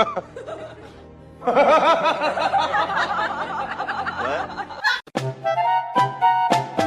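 Laughter from several overlapping voices for about three seconds, then a short jazzy music cue with drum hits and brass starting about five seconds in.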